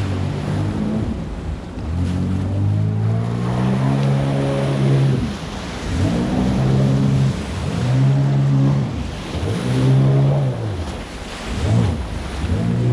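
Jet ski engine running under way, its pitch climbing and falling again every second or two as the throttle and load change, over the rush of water and wind.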